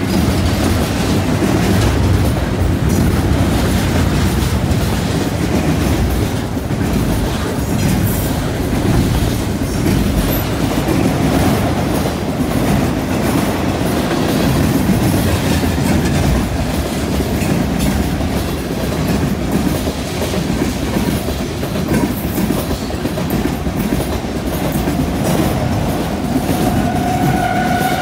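Freight train cars rolling past at trackside: a steady rumble and clatter of steel wheels on the rails and over a junction switch. A thin, steady high tone comes in near the end.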